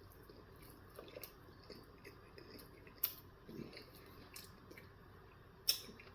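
Faint close-up chewing and wet mouth noises from someone eating a bagel breakfast sandwich, with two sharper clicks, one about three seconds in and one near the end.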